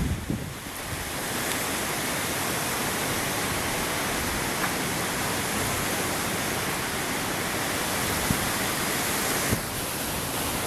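Steady rushing noise of a gust-front storm's strong wind, with gusts buffeting the microphone right at the start.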